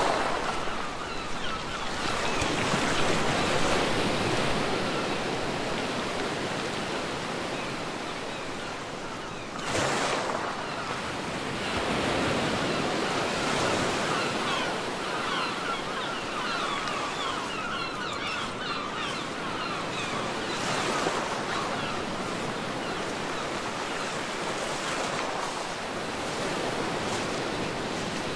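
Ocean waves breaking and washing up a beach: a continuous rush that swells and ebbs, with one wave crashing suddenly about ten seconds in.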